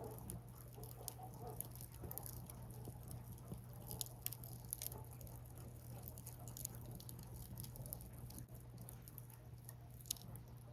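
Burning firewood crackling, with irregular sharp snaps and pops; the strongest come about four seconds in and near ten seconds.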